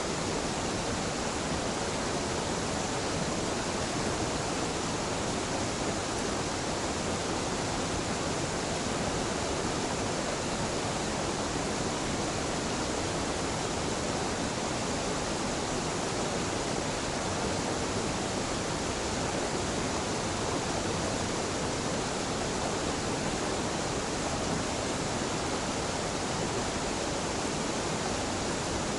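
Small waterfall at a stream confluence: water falling and rushing with a steady, unbroken noise.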